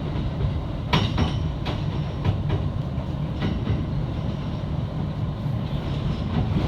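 Electric train running at speed with a steady low rumble, its wheels clicking sharply over rail joints several times.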